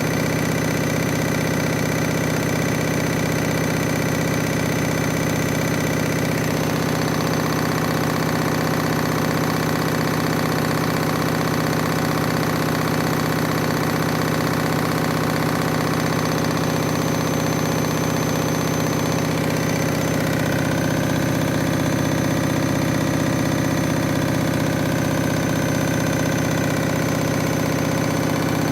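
Washing machine drum spinning a badly unbalanced load of towels, with the machine shaking as it goes. The motor and drum make a steady mechanical drone whose note changes twice, about six and twenty seconds in.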